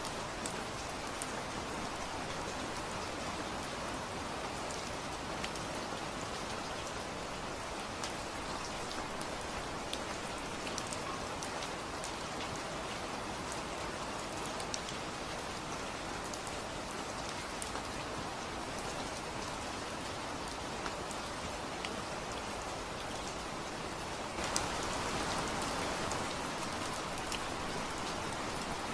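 Steady rain falling, with scattered sharp ticks of single drops striking a surface. It swells a little louder near the end.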